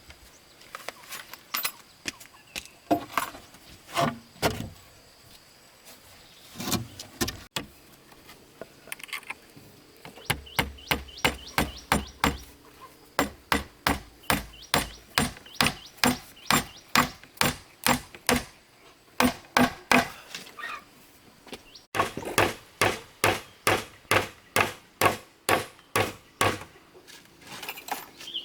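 Repeated blows of a hand tool striking, scattered at first, then a steady run of about two strikes a second, broken by a short pause before picking up again.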